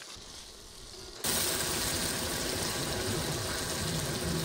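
Onions and tomatoes frying in hot oil in a kadai over a wood fire: after about a second of quiet, a loud, steady sizzle starts suddenly and holds.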